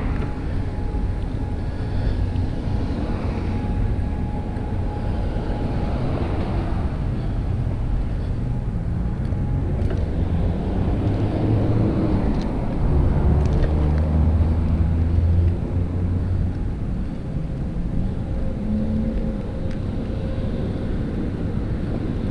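Wind buffeting the microphone of a GoPro Hero 5 Black during a mountain-bike ride, a steady low rumble. A deeper hum swells for a few seconds past the middle, then eases off.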